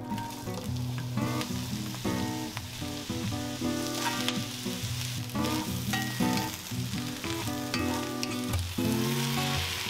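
Sliced onion, carrot, eggplant and mushrooms sizzling as they fry in hot oil in an enameled cast-iron wok, stirred with a wooden spatula. Background music plays throughout.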